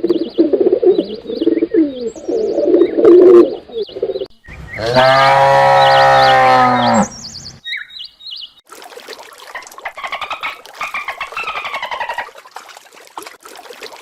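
A cow's long, steady moo of nearly three seconds, starting about four seconds in, among other animal calls and birds chirping.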